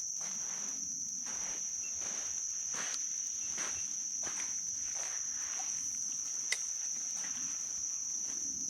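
Insects chirring in one steady, high-pitched drone, with soft scattered rustling noises and a single sharp click about six and a half seconds in.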